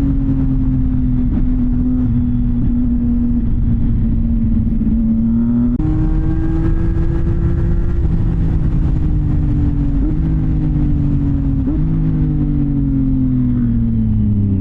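CFMOTO 675NK's three-cylinder engine, through a titanium full-system exhaust, running under way at steady revs that slowly sag. The revs jump up about six seconds in, give short blips near ten and twelve seconds, and fall sharply at the very end.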